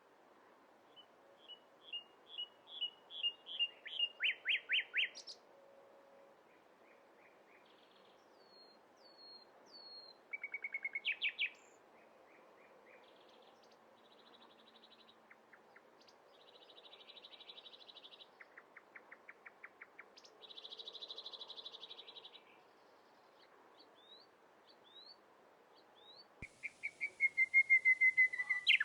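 Several birds singing in turn: a run of chirps that quickens and grows louder in the first few seconds, a few short falling whistles, a quick trill, then buzzy rattling songs, and near the end a fast run of loud chirps. A faint steady hiss lies underneath.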